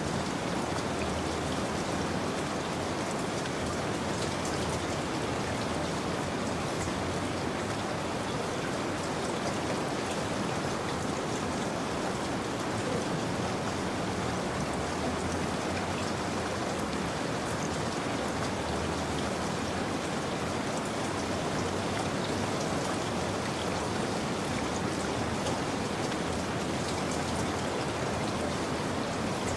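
Steady rain, a dense even patter of drops falling on a surface, with no thunder.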